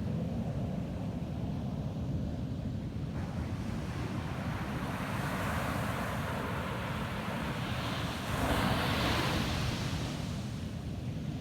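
Ocean surf washing onto a sandy beach: a steady wash of waves that builds, with one wave breaking loudest about eight to nine seconds in and then hissing away, over a constant low rumble.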